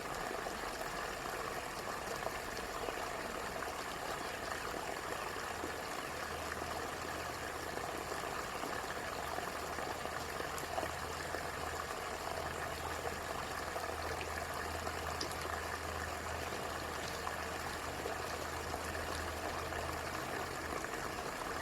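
Steady running water, an even rushing that holds unchanged throughout.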